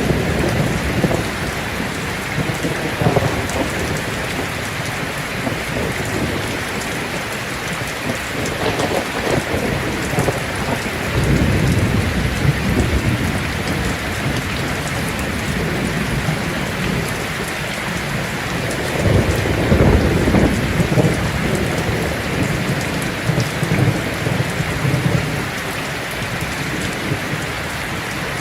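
Heavy rain drumming steadily on a tin roof, with thunder rolling in several low rumbles, the loudest about two-thirds of the way through.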